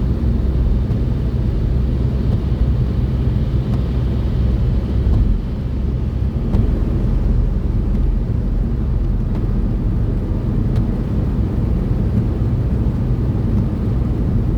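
Steady low rumble of a car's engine and tyres heard from inside the cabin while driving at motorway speed.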